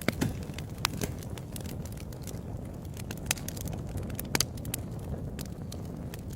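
Wood fire burning with a low steady rumble and irregular crackles and pops, a few sharper pops standing out.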